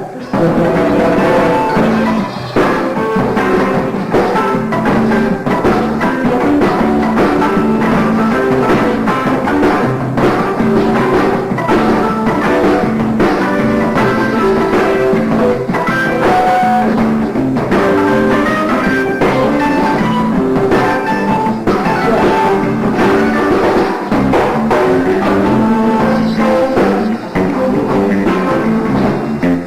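Live band playing an instrumental funk jam: electric guitar over a drum kit and bass.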